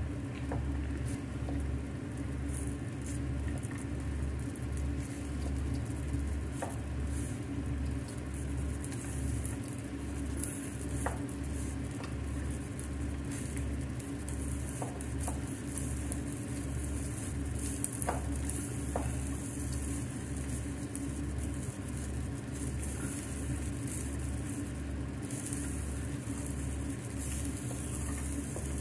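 Fried rice with cashews sizzling in a hot frying pan as it is stirred and turned with a wooden spatula, with a few sharp clicks of the spatula against the pan. A low, regular throb runs underneath.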